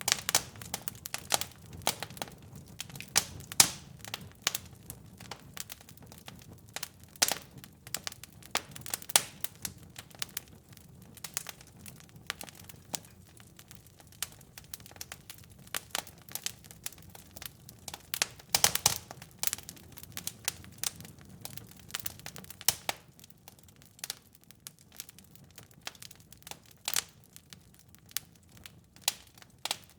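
Wood fire crackling in a fireplace: irregular sharp pops and snaps over a low steady rumble of flames, busiest in the first two thirds and sparser near the end.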